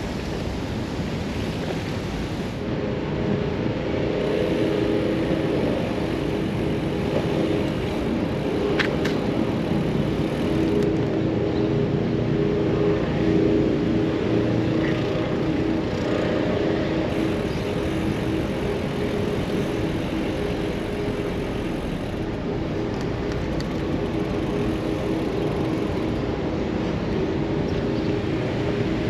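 Steady rush of wind and tyre noise from a gravel bike being ridden on city streets, with motor traffic around it and one brief tick about nine seconds in.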